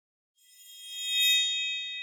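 A bell-like chime that swells in about half a second in: several high ringing tones that peak and then hold, slowly fading.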